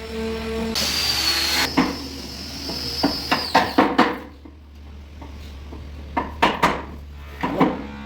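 Woodworking sounds: a power tool whirs loudly for about a second, its high whine trailing on more faintly for a few seconds. Scattered knocks of wood on wood follow.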